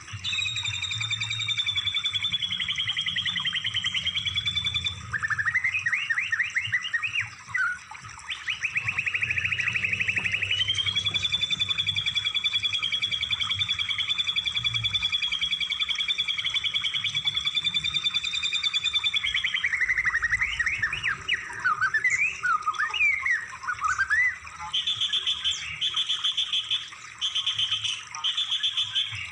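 Songbird song played as masteran training material, several song phrases in a row. It opens with long, fast trills, one held steady for about nine seconds, with quick sweeping notes between them. About twenty seconds in comes a chattering run of up-and-down notes, and near the end a short buzzy phrase repeated about once a second. A faint low hum runs underneath.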